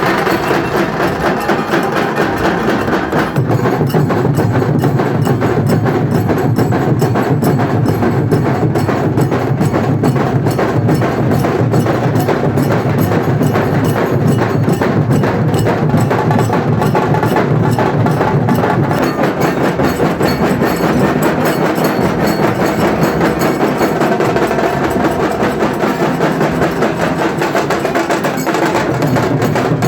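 Dhol-tasha drum troupe playing a fast, loud, steady rhythm: sharp rapid tasha strokes over big barrel dhol drums. The deep dhol beats come in heavier about three seconds in.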